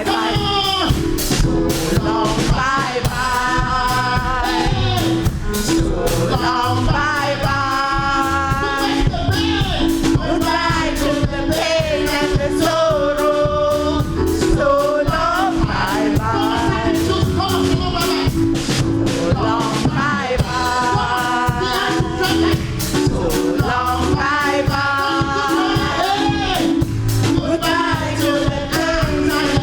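Live gospel singing with band accompaniment, voices over a steady percussive beat.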